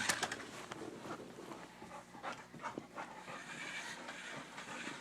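Excited blue-nose pit bull panting hard, with scattered scratching and knocking sounds; a sharp clatter comes right at the start.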